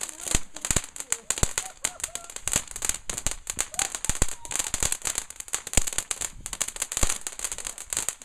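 Fireworks crackling and popping: a dense, irregular run of sharp cracks, several a second.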